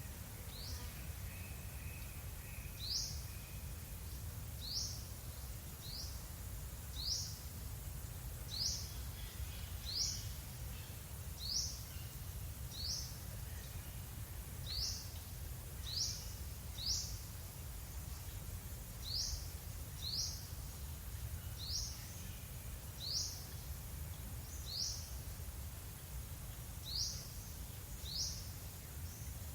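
A songbird repeating one short, high-pitched call over and over, roughly once every second or two, with a steady low rumble of background noise underneath.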